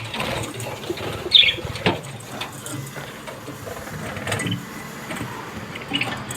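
Clicks and rattles of a wire cage and nest pot being handled, with a short shrill lovebird chirp about a second and a half in.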